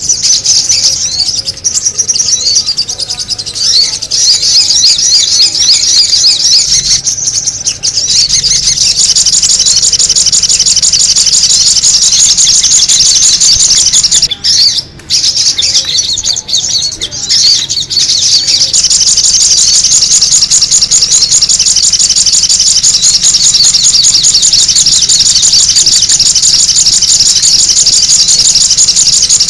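Sogon bird chattering loudly without pause, a dense run of rapid high notes, as played for a bird lure; it breaks off briefly twice.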